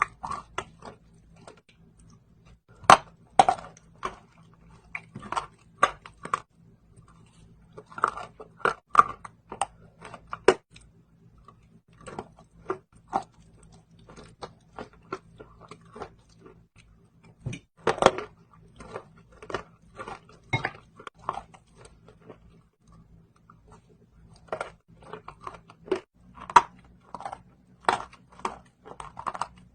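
Slate pencils being bitten and chewed close to the microphone: dry crunching in irregular bursts of sharp cracks, with short pauses between bites.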